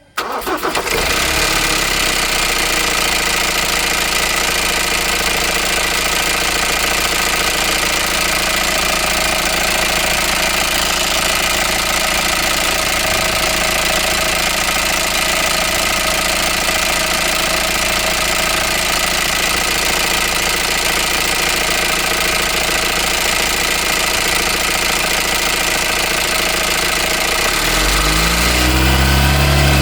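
2016 Ford Transit 2.0 EcoBlue diesel engine starting and idling with an extreme rattle, a fault of unknown cause that began after a replacement turbo was fitted. Near the end the engine is revved up.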